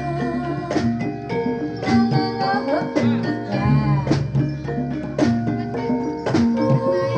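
Live gamelan music accompanying a jathilan dance: struck metallophones ringing sustained notes over a steady rhythm of drum strokes.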